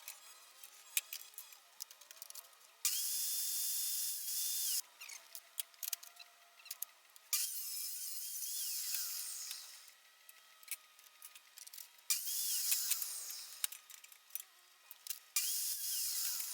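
A power tool run in four short bursts of about two seconds each, its motor whine rising at each start and falling at each stop, with scattered clicks and knocks between the runs.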